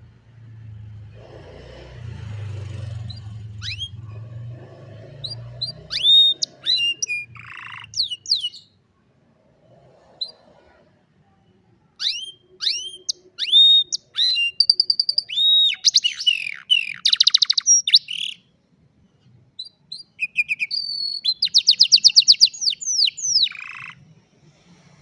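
Domestic canary singing: phrases of quick sweeping whistled notes and fast rolling trills. The song comes in bursts with short pauses and grows densest in the second half. A low rumble sounds under the first few seconds.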